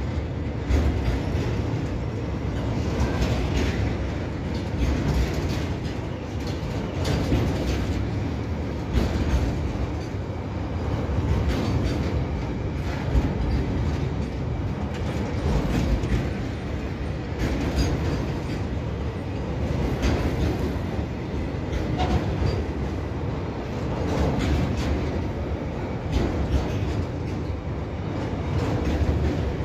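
Indian Railways BCACBM enclosed car-carrier wagons rolling past: a steady rumble of steel wheels on rail, with repeated clicks and clacks as the bogies run over the rail joints.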